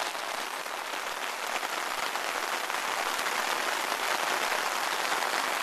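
Heavy rain in a downpour, falling steadily as a dense, even hiss of drops.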